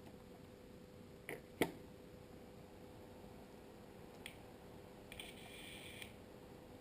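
A few sharp clicks, the loudest a pair about a second and a half in. Near the end comes a brief high, buzzing whirr of about a second from the small stepper motor that pans and tilts a WANSCAM IP camera, run as a test after reassembly.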